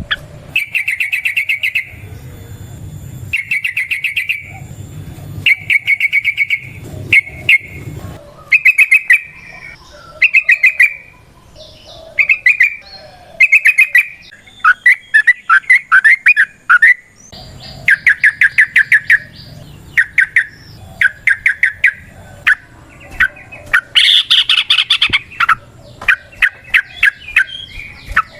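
Yellow-vented bulbul (trucukan) singing in full voice: bursts of fast chattering notes, the long rapid 'ropel' song, repeated one after another with short gaps between.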